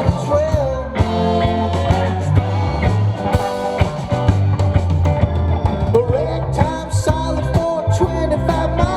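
Live rock band playing an instrumental passage: a bending lead guitar melody over bass and drums.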